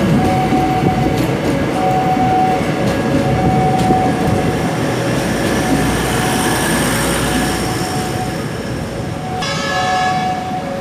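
KRDE diesel multiple unit passing close by, rumbling with wheels clacking on the rails, then fading somewhat as it draws away. A level-crossing warning alarm sounds in a repeating on-off pattern about once a second, and a brief horn blast comes about nine and a half seconds in.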